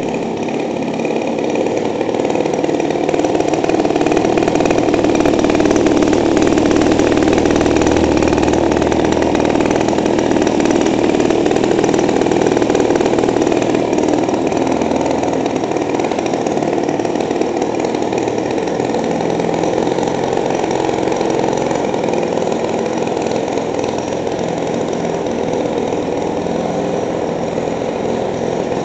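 A 50 cc two-stroke model-aircraft engine running steadily and driving the pusher propeller of a motorized bicycle. It is a little louder for several seconds, then eases off slightly.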